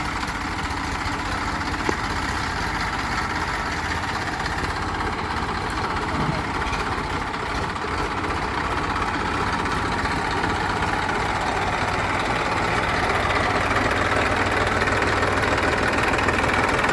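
Tractor engine idling steadily, getting a little louder in the second half.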